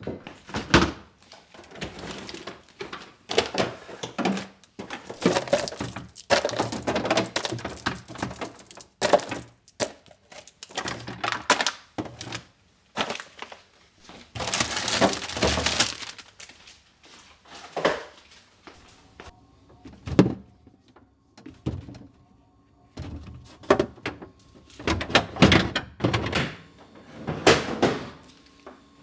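Kitchen items being handled and set down during cleaning: a string of knocks, thunks and clatters, with a brief rush of noise about halfway through.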